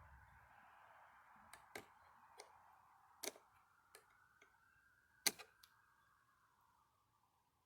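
Scattered sharp clicks and taps of small metal parts being handled, about nine in all, the loudest a little past halfway, over a faint steady hiss.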